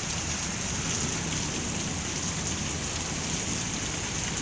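Heavy rain falling steadily, a continuous hiss of rain on the ground and surfaces.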